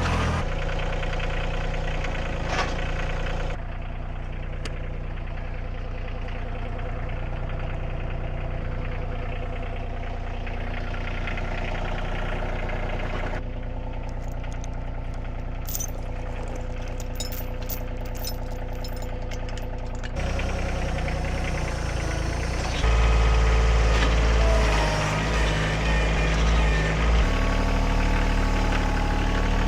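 Tractor engine running steadily as it lifts with its forks, its note shifting a few times and getting louder near the end. A few light metallic clicks come in the middle.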